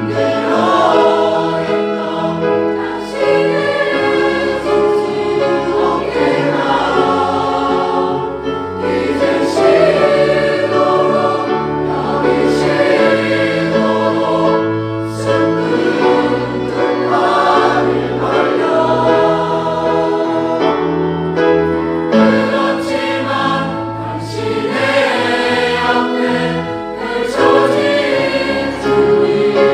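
Choir singing a sacred choral anthem, full voices holding and moving between sustained chords without a break.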